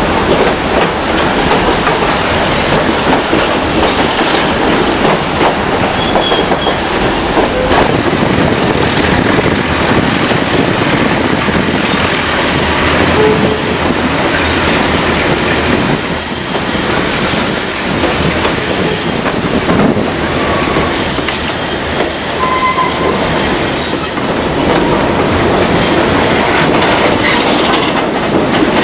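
White Pass & Yukon Route narrow-gauge train running, heard from aboard: steady wheel-on-rail rumble with clacking over the rail joints and a few brief wheel squeals on the curves.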